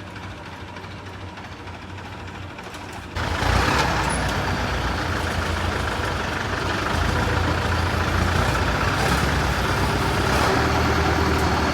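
Vehicle engine running with a low rumble. About three seconds in it jumps suddenly louder and then runs on steadily with mechanical noise.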